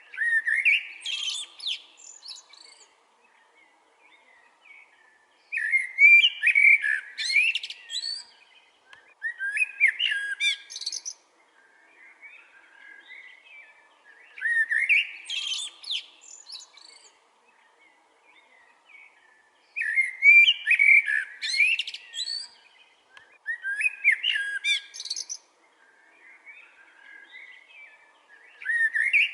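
A songbird singing a phrase of about two seconds, repeated every four to five seconds, with fainter bird calls between the phrases.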